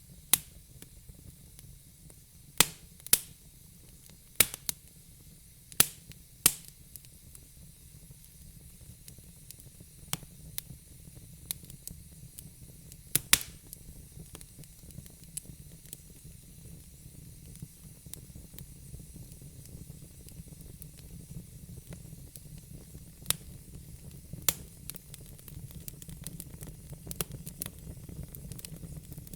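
Wood fire burning in a fire pit, logs crackling: irregular sharp pops, a cluster in the first few seconds and a few more later, over a steady low rumble and hiss.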